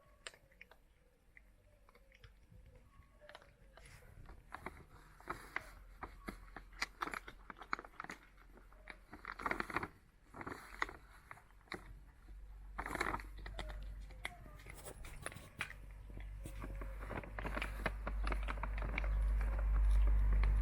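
Cats biting and crunching dry food, a stream of irregular sharp crunches. A low rumble grows steadily louder through the second half.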